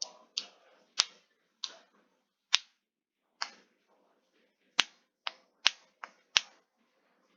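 A series of about eleven sharp clicks at uneven intervals, with a gap of over a second in the middle and none in the last second.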